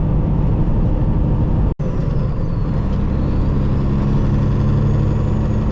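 Semi-truck's diesel engine running steadily under way, heard from inside the cab, with a momentary break in the sound a little under two seconds in.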